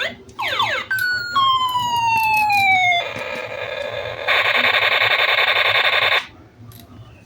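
Electronic siren-like sound effects from a battery-powered toy: quick falling pitch sweeps, then a long tone gliding slowly downward, then a harsh buzzing for about two seconds that cuts off suddenly.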